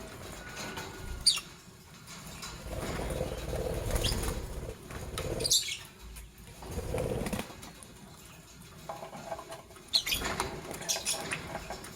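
Lovebirds fluttering their wings and scuffling, with a few short, sharp high chirps about a second in, around five and a half seconds and several more near the end.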